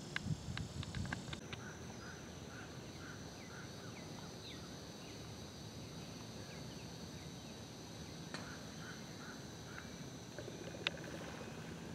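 Birds calling: runs of short repeated chirps and scattered quick falling whistles over a steady high whine. There are a few light clicks at the start and one sharp click near the end.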